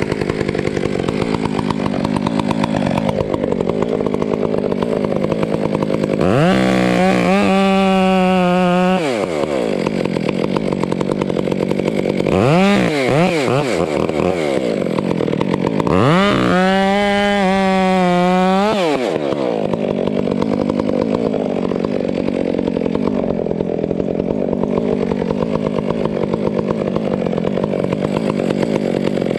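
Two-stroke chainsaw idling, revved to full throttle twice for about two seconds each, with a short throttle blip between.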